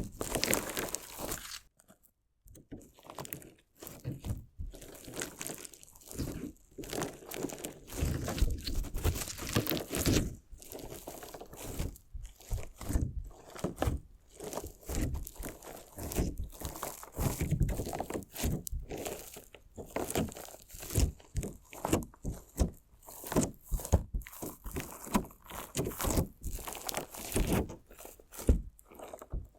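Crunchy slime with decorative stones being cut and squeezed close to the microphone: a dense, irregular run of crackling crunches and clicks, with a brief pause about two seconds in.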